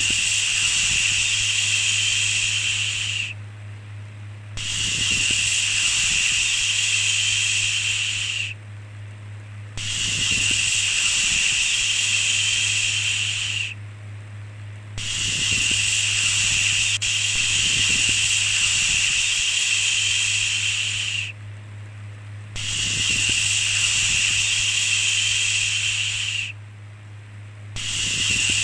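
Repeated long 'shhh' shushing sounds, each held for about four seconds (one runs about six), with a pause of about a second between them, over a steady low hum.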